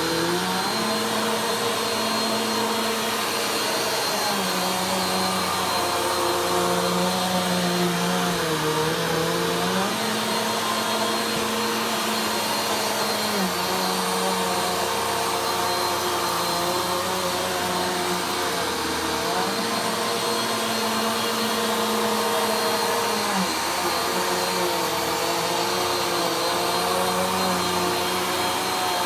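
Vacuum cleaner running steadily while it is pushed slowly over the floor. Its motor hum shifts back and forth between two pitches every few seconds as the load changes.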